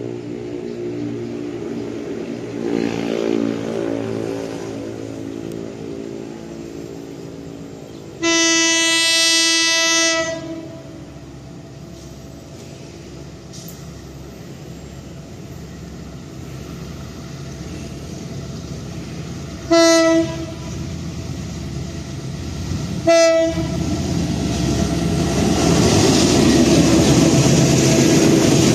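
Diesel train horn sounding one long blast of about two seconds, then two short toots a few seconds apart. Under it a locomotive engine runs, and the train noise grows louder near the end as it comes closer.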